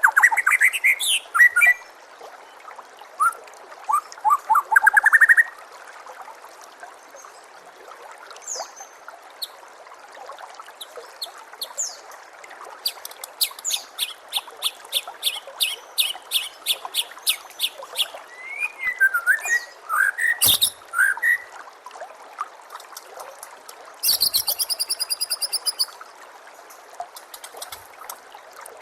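White-rumped shama (murai batu) singing varied phrases: whistled glides, a long rapid series of repeated sharp notes, and a harsh buzzy phrase near the end. A steady trickle of running water runs underneath.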